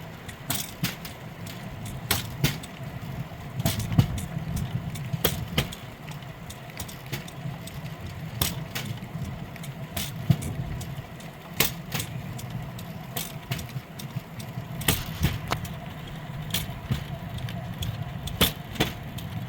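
Pedal-powered rail bike rolling along steel rails: a steady low rumble with many irregular sharp metallic clicks and rattles.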